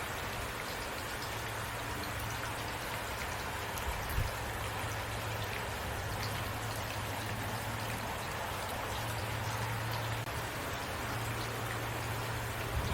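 Heavy rain falling steadily, with one louder drop tap about four seconds in.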